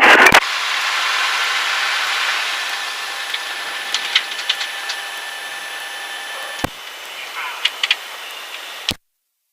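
Cessna 152 cockpit noise heard through the intercom as the aircraft is shut down: a steady hiss with a faint whine fading gradually, with a few switch clicks. The whine stops with a click about two-thirds through, and the audio cuts off with a click near the end.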